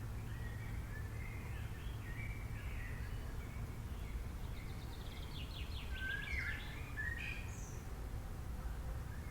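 Several wild birds chirping and singing in short warbling phrases, with a fast run of repeated notes about five seconds in, over a steady low background rumble.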